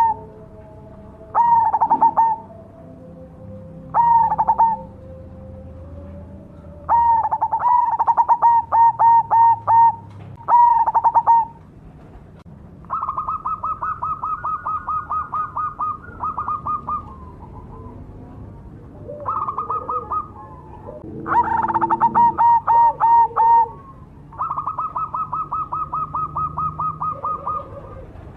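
Zebra dove (perkutut, black cemani variety) singing its cooing song: short bursts of rapid coo notes repeated every couple of seconds, alternating with longer even rattling trills pitched a little higher.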